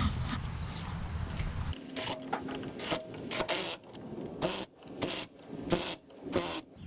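Hand ratchet wrench being worked on a bolt: a run of about ten quick ratcheting strokes, roughly two a second, after a low steady rumble in the first couple of seconds.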